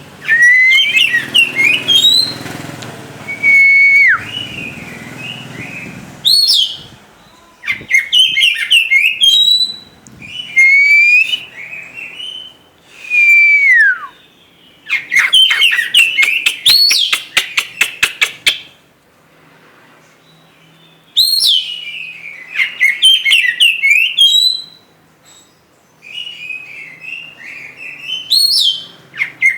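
Oriental magpie-robin singing loud, varied whistled phrases of rising and falling notes, with a fast clicking rattle about halfway through. The phrases come in bursts with short pauses between them.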